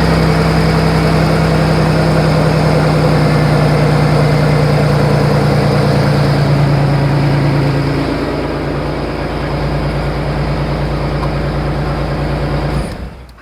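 1988 Chevrolet Cavalier Z24's 2.8 L V6 idling steadily on its newly fitted serpentine belt, with the alternator charging. The idle drops slightly about eight seconds in, and the sound cuts off abruptly near the end.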